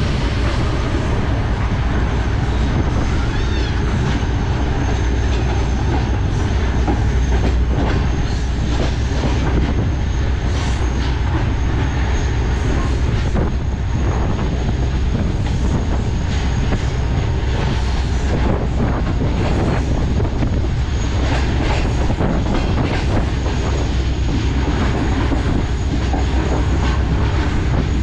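Sir Syed Express passenger train running along the track: a steady loud low rumble of the coaches, with irregular clatter of the wheels over the rails and a faint high steady whine above it.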